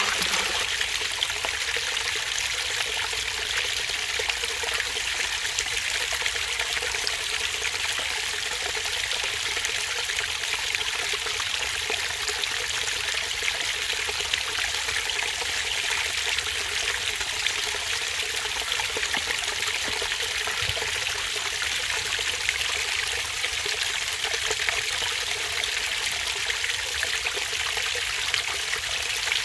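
Mountain valley stream flowing over rocks: a steady, even rush and trickle of water.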